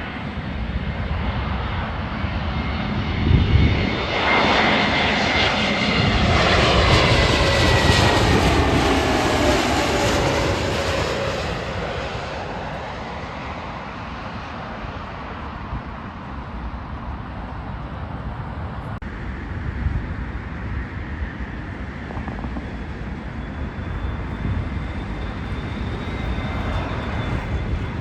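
Jet airliner passing close by. The engine noise builds over the first few seconds and peaks around eight seconds, with whining tones that fall in pitch as it goes past. It then fades to a distant rumble.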